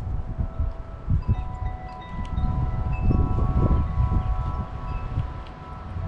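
Wind chimes ringing, several tones sounding and overlapping as new strikes start, over gusty wind buffeting the microphone.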